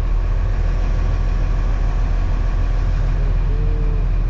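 Truck's diesel engine running steadily under way, a constant low drone with road noise heard from inside the cab.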